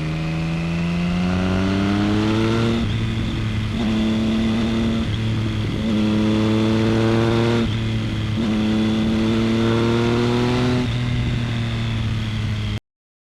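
Motorcycle engine sound effect accelerating through the gears: the pitch climbs steadily, then breaks and drops at each of several upshifts before climbing again. It cuts off suddenly near the end.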